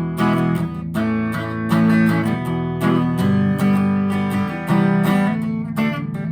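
Electric guitar, a Squier Classic Custom Telecaster, played through a Vox AV15 valve amp on its clean channel with the Fat switch off. A run of strummed and picked chords, each struck chord ringing into the next.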